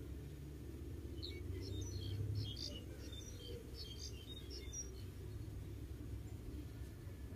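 A bird chirping in a quick run of short high notes, starting about a second in and lasting some four seconds, over a steady low rumble.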